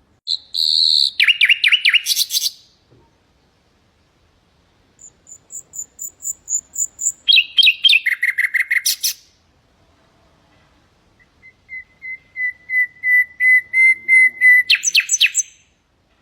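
Nightingale singing three separate phrases a few seconds apart, each made of rapid repeated notes. The last phrase is a run of same-pitched whistled notes that swells in loudness, then ends in a quick, higher flourish.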